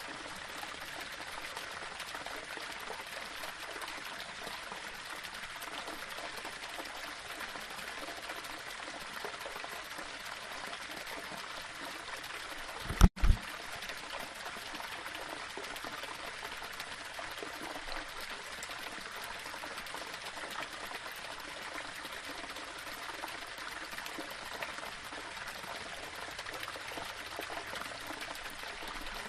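Small waterfall running over rocks: a steady rush and trickle of water. About halfway through there is a brief low double thump, much louder than the water, with a split-second dropout.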